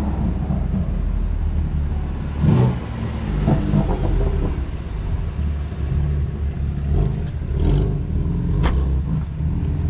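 Car engine running with a loud, steady low drone.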